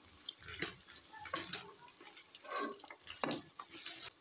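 Sliced onions, garlic and green chillies frying in plenty of hot oil in a pot: a soft sizzle with irregular crackling pops, one sharper pop a little past three seconds in.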